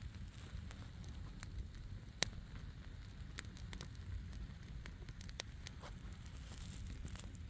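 Garden bonfire of dry grass and frost-damp branches burning, crackling with scattered sharp pops over a low steady rumble; one louder pop about two seconds in.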